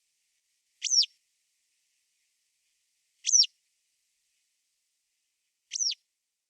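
A songbird repeating one short call three times, about two and a half seconds apart; each call is a quick, high downward sweep.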